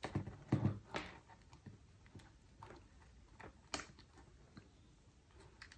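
A few light clicks and knocks of plastic parts being handled as an end cap is worked onto a metal detector's control housing, irregular with quiet gaps between.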